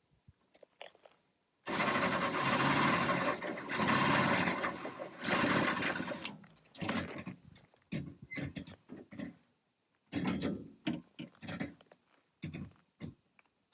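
Power drill running in three long bursts of a second or two each, then in shorter, irregular bursts, drilling a hole into the Land Rover's body.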